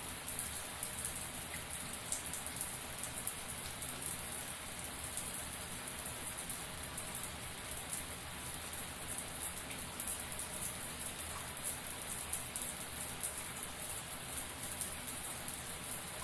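Shower running steadily, a dense hiss of water drops falling onto a hard surface. One sharper tap about ten seconds in.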